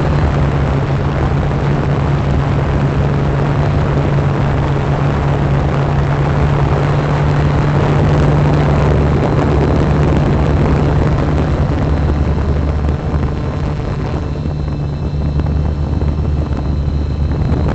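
Drone's motors and propellers humming steadily, with rushing noise over them; the rushing eases a little about twelve seconds in.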